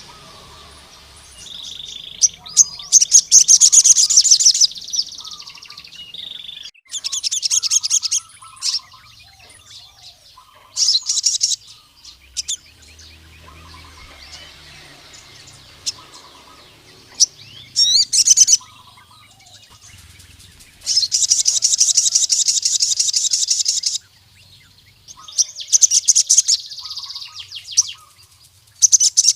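Male sogon (ruby-cheeked sunbird) singing in repeated bursts of rapid, high trilling notes, each phrase lasting one to three seconds with short pauses between: the full song a male uses to call out a rival male.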